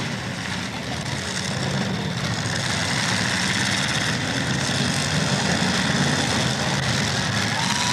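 Engines of several demolition derby cars running together as a steady rumble, with no single crash standing out.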